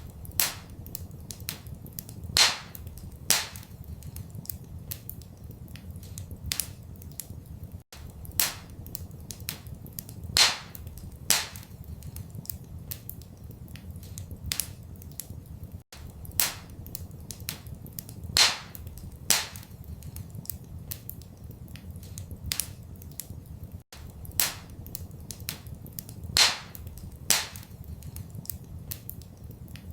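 Wood fire crackling in a fireplace: irregular sharp pops and snaps, a few of them loud, over a steady low rumble. The same pattern of pops repeats about every eight seconds.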